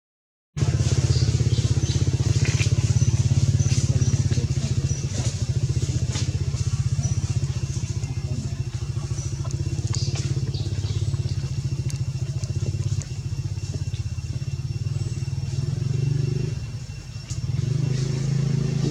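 An engine running steadily with an even low rumble, briefly quieter near the end.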